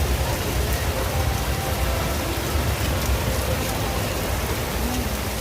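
Torrential downpour: heavy rain falling steadily in a dense, even hiss, with a steady low rumble underneath.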